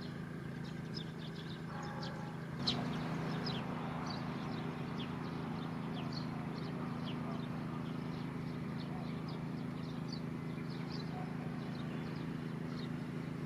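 Many small birds chirping in short, high notes, over a steady low drone of background noise. A brief sharp click comes near the three-second mark.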